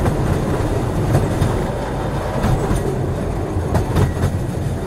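Freight train cars rolling over the rails at close range: a steady heavy rumble with scattered sharp clicks and knocks from the wheels on the track.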